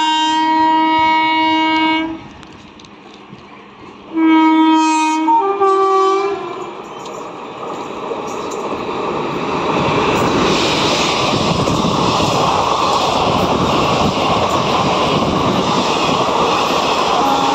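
A train horn blows twice: one blast about 2 s long, then a second, slightly longer one a few seconds later that steps to a different pitch partway through. From about 7 s the rumble of a WAP4-hauled passenger express running through the station without stopping builds up, then holds as a steady loud rush of coaches going past.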